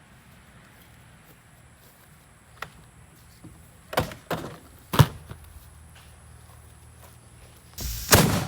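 A few sharp knocks and thuds spread over several seconds, then a louder, longer crash near the end.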